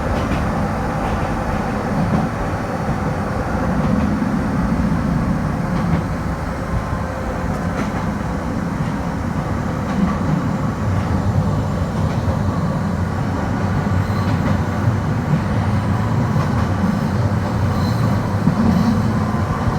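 Kobe Electric Railway electric train running along the track: a steady low rumble of wheels and running gear.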